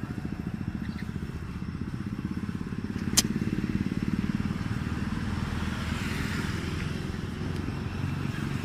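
A small engine running steadily with a fast, even pulse, and a single sharp click about three seconds in.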